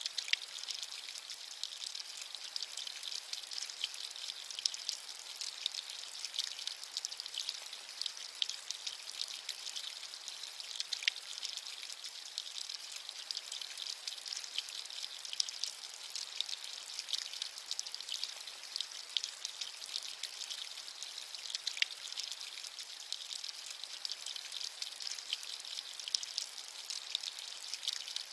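Steady rain with a dense patter of individual drops over a high, even hiss.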